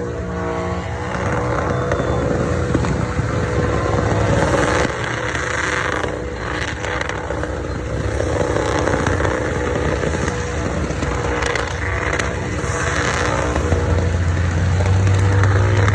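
Dodge truck's engine held at high revs in a burnout, its rear tyres spinning against the pavement. It runs steadily and grows louder and deeper about fourteen seconds in.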